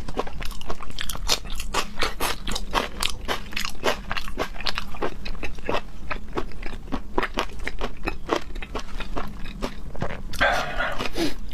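Close-miked chewing: a person crunching food in the mouth with sharp, crisp crunches at about three a second, then a short noisy burst near the end.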